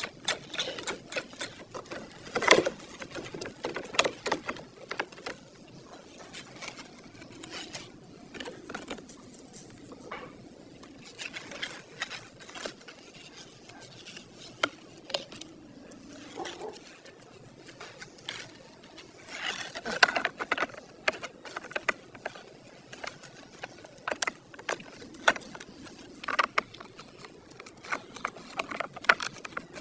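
Small parts and hand tools being handled at a workbench: irregular clicks, taps and light scrapes, with a few sharper knocks.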